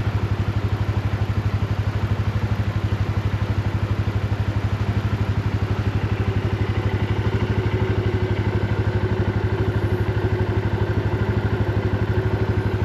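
A small vehicle engine idling steadily with an even, rapid low pulse, over the constant rush of a high, fast-flowing creek.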